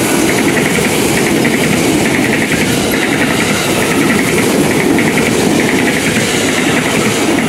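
KRL commuter electric multiple unit passing close by at speed: a steady loud rush of wheels on rail and running gear.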